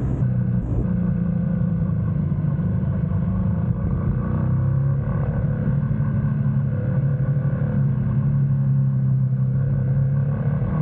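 GS motorcycle's engine running steadily under way, its pitch shifting a little about halfway through as the throttle changes.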